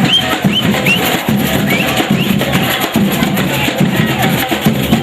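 Batucada samba percussion ensemble playing a dense, driving drum rhythm, with short high gliding notes repeating over it about three times a second in the first half.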